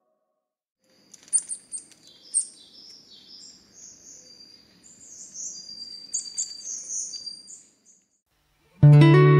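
Small songbirds chirping in quick, high twittering notes over a faint low background hush. Near the end a loud plucked guitar tune starts.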